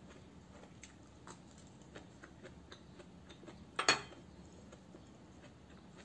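Close-up eating sounds of a person chewing dried fish and rice: many small, scattered mouth clicks and smacks, with one louder, sharp sound just before four seconds in as she works the food on her plate with her fingers.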